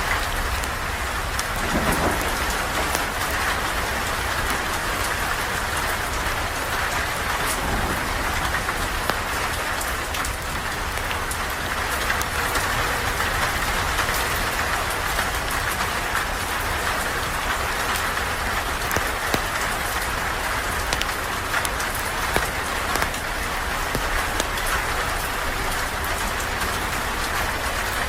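Steady rain falling, with scattered sharp crackles and ticks from a campfire burning alongside.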